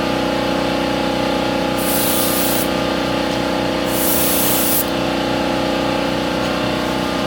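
Primer being sprayed on a car's engine bay in two short hissing bursts, each under a second, over a steady mechanical hum.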